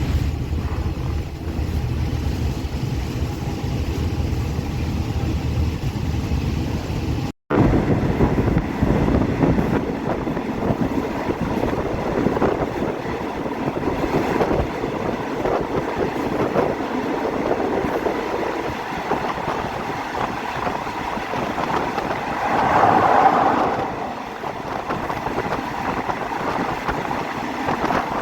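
Diesel-hauled passenger train running, heard from on board. A low steady rumble gives way, after a brief break about seven seconds in, to a louder running noise of the wheels on the rails, with a swell about two thirds of the way through.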